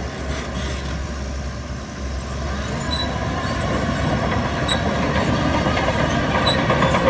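Heavy earthmoving machinery working: a diesel engine running under load with rumbling and a few faint high squeaks, growing louder from about two seconds in.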